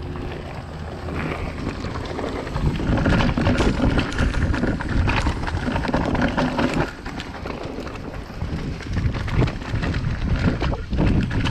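Wind buffeting a chest-mounted action camera's microphone, over the rattle and crunch of a downhill mountain bike rolling fast over rough dirt trail. It grows louder about two and a half seconds in and eases briefly about seven seconds in.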